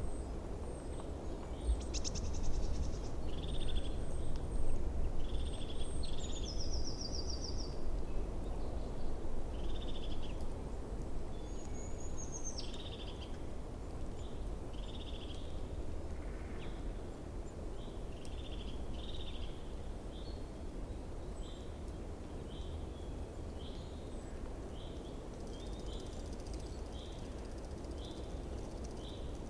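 Small birds chirping and calling: short, repeated chirps with a few high thin notes and a quick trill in the first half, settling into a regular chirp about once a second later on, over a steady low rumble.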